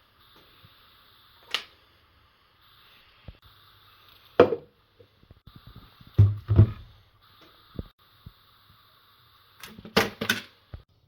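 A few separate knocks and clicks from objects being handled, the loudest about four seconds in, a close pair just after six seconds and a quick cluster near the end, with a faint hiss between them.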